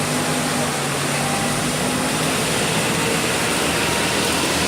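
Truck engine running under a loud, steady noise. A low engine tone holds for the first two seconds or so, then sinks into the noise.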